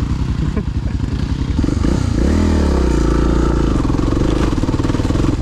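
Motorcycle engine running as the bike rides along at low speed, revving up about two seconds in and then holding a steady note.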